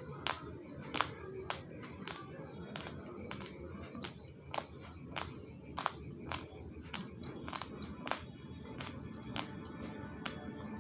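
Raw basmati rice grains being chewed, with a sharp crunch about one and a half times a second in an even chewing rhythm.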